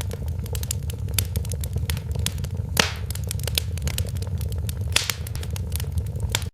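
Wood fire in a fireplace crackling, with frequent sharp pops over a steady low rumble of the flames. One louder pop comes a little under three seconds in.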